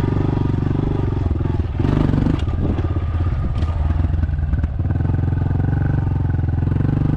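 Dirt bike engine running while being ridden, the revs changing briefly about two seconds in, with a stretch of rattling clicks in the middle.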